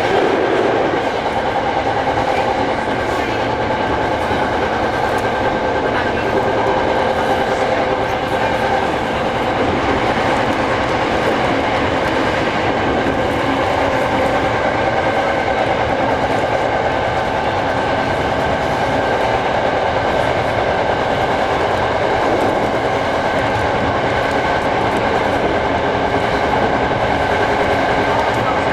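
Hankyu 6300 series electric train running at a steady speed, heard from inside the leading car: continuous wheel-on-rail running noise with steady tones over it.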